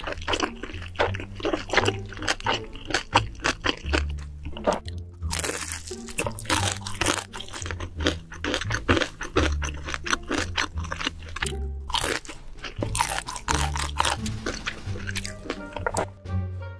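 Close-miked mukbang eating: rapid crunching and chewing of crisp food, many sharp crunches in quick succession, over background music with a low bass line.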